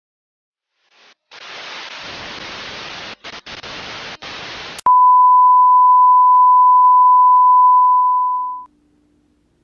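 Television static hiss, breaking off briefly a few times, then a loud steady single-pitch beep: the test tone that goes with colour bars. The beep lasts nearly four seconds and fades out at the end.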